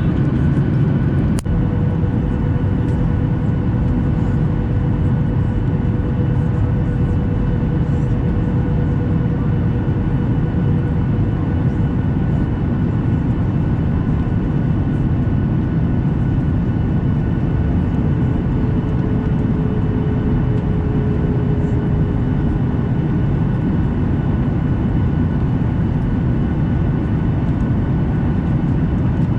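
Boeing 737 airliner heard from inside the cabin in flight: a steady, loud roar of jet engines and rushing air with thin steady whines over it, one of them sagging slightly in pitch partway through. A single sharp click comes about a second and a half in.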